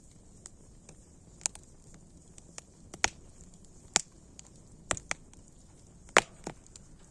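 Campfire crackling: irregular sharp pops of burning wood, the loudest a little after six seconds in, over a faint steady hiss.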